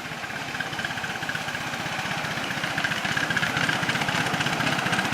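Miniature railway locomotive running with a rapid, even pulse, growing steadily louder as it approaches.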